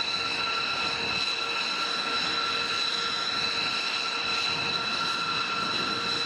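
Jet engine running steadily: a constant high whine over a rushing noise.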